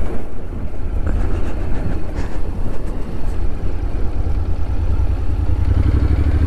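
Honda NC750S's parallel-twin engine running steadily at low revs through a tight right-hand bend, a deep pulsing rumble.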